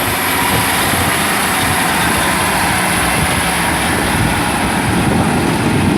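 Diesel multiple unit's underfloor engine running close by, a loud steady rumble with a thin high whine over it.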